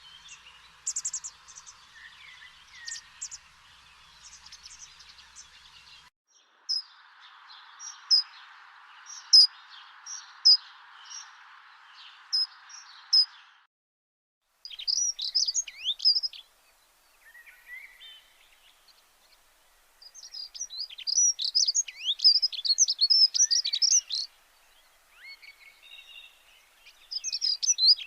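Small birds chirping and singing in quick, high calls. A steady hiss runs behind them through the first half and cuts off about halfway, followed by a moment of silence and then denser bursts of chirping.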